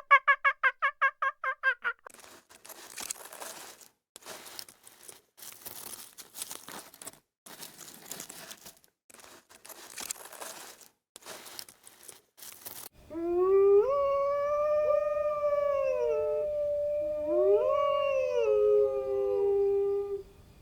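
A fowl gives a fast run of pulsed calls, about eight a second, which stops about two seconds in. Irregular rustling follows. Then, for the last seven seconds, a dog howls, the loudest sound here: one long wavering howl that slides up and down in pitch and breaks briefly midway.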